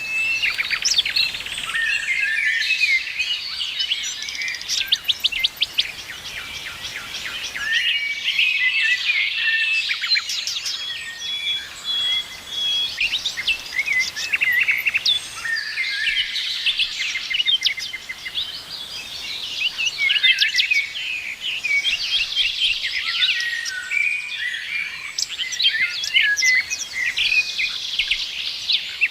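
A chorus of many wild birds singing and chirping at once, with overlapping quick chirps, rapid trills and short whistled notes.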